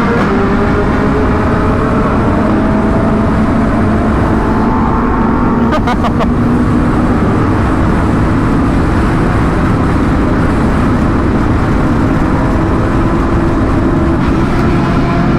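Sport motorcycle engine running at speed under a steady rush of wind, its pitch climbing slowly as it pulls through the gears. A few quick clicks come about six seconds in.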